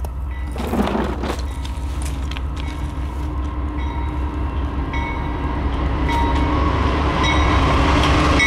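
Freight train rumbling, with a short clatter about a second in; the diesel locomotives of an oncoming BNSF freight grow steadily louder near the end.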